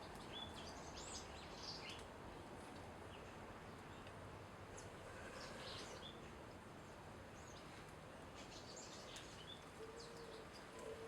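Small birds giving short, high chirps in a few scattered clusters over a steady background hiss.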